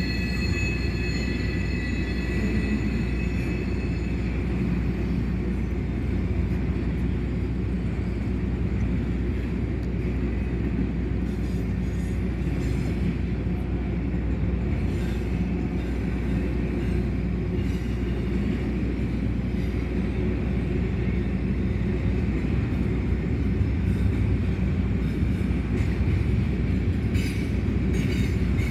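Double-stack container train of well cars rolling steadily past, with a continuous low rumble of wheels on rail. A high wheel squeal rings over the first few seconds and fades out about four seconds in, and there are a few light clicks later on.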